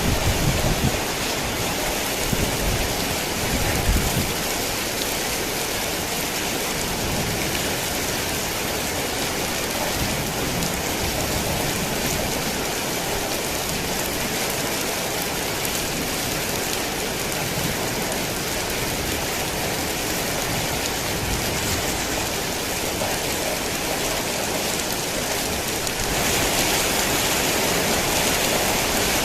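Heavy rain falling steadily, a dense even hiss of drops. A low rumble sits under it for the first few seconds, and about 26 seconds in the rain turns slightly louder and brighter.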